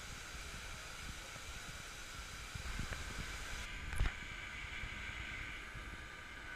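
Faint, steady outdoor background noise, with a single short knock about four seconds in.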